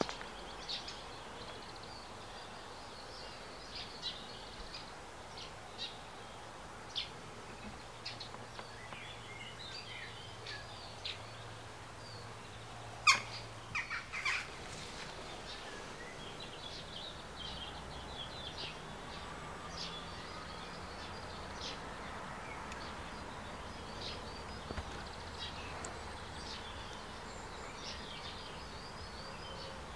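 Small woodland birds chirping and singing in short, scattered calls over a steady faint outdoor background, with a much louder sharp call or crack about halfway through, followed by a second one a second later.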